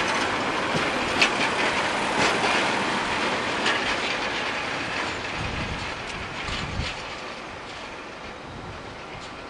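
Transport for Wales Pacer railbus (two-car diesel unit) running past and away, its wheels clacking over rail joints and points every second or so. The noise fades steadily as it recedes.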